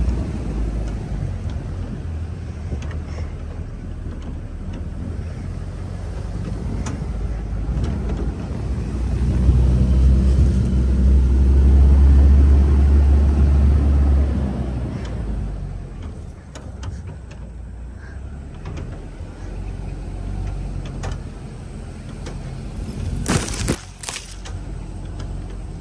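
Ford 4x4's engine running at low speed over a rough dirt track, heard from inside the cab; the low engine hum swells for several seconds around the middle, then eases off. A few sharp knocks near the end as the vehicle jolts.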